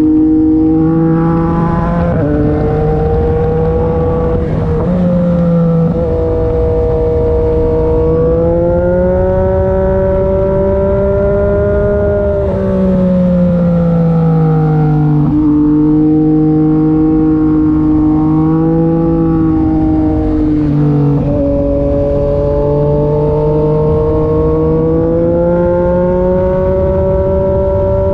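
Yamaha MT-09 SP three-cylinder engine through an SC-Project aftermarket exhaust, ridden at moderate revs: the exhaust note climbs and falls as the throttle is worked, with several gear changes breaking the pitch along the way, over steady wind and road noise.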